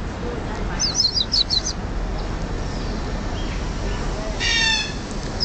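Aviary birds calling: a quick run of short, high, falling chirps about a second in, then one loud, harsh squawk near the end.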